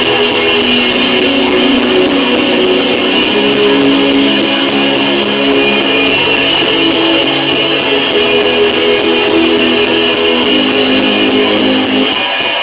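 Instrumental worship music led by guitar, with held chords that change every few seconds.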